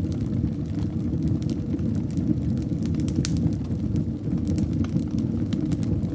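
Fire burning in a fireplace: a steady low rumble of flames with scattered sharp crackles and pops at irregular intervals.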